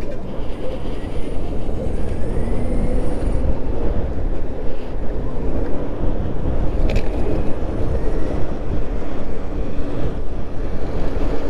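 Wind rushing over the microphone and road rumble while riding an electric moped at speed, a loud steady roar with a faint steady hum underneath.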